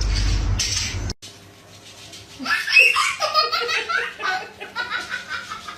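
A loud rushing noise that cuts off suddenly about a second in, followed, after a short lull, by hearty human laughter.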